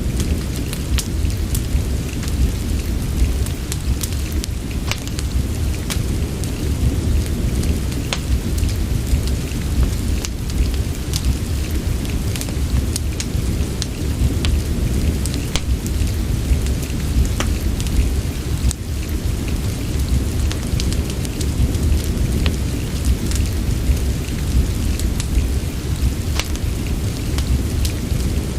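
Steady rain with a deep, constant rumble underneath, mixed with scattered sharp crackles and pops of a wood fire in a fireplace.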